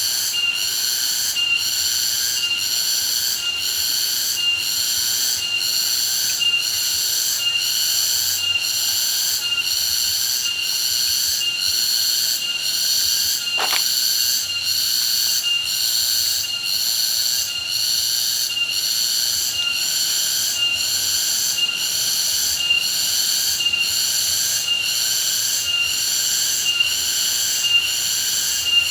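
Loud insect chorus, high-pitched and shrill, pulsing in an even rhythm at a little over one pulse a second, with one brief click about halfway through.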